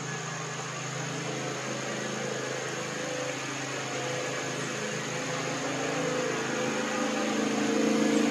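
An engine droning, with steady low pitched tones that shift and grow louder toward the end, as of a motor vehicle approaching.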